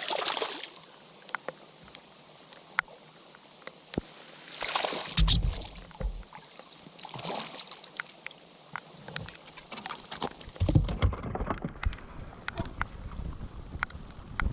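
Water sloshing and splashing around a fishing kayak in several short surges, with scattered light clicks and knocks.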